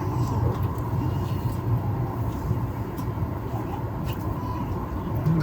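Steady low machinery rumble heard inside a passenger cabin, with faint voices in the background.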